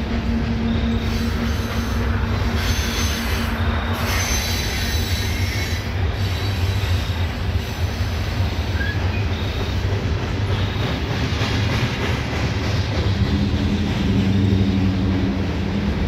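CSX coal train's hopper cars rolling slowly over a stone arch bridge: a steady low rumble of wheels on rail, with short high squeals from the wheels now and then.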